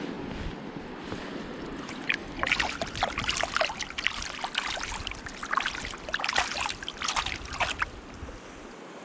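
Water splashing in irregular bursts over a steady wash of water: a hooked trout thrashing at the surface as it is brought in.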